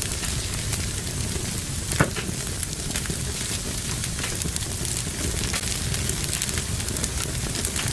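Wood fire crackling in a fireplace: a steady low rumble of flames with frequent small pops and one louder snap about two seconds in.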